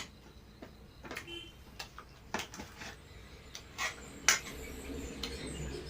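Scattered light clinks and taps of utensils on dishes while eating, a handful of separate clicks over a few seconds.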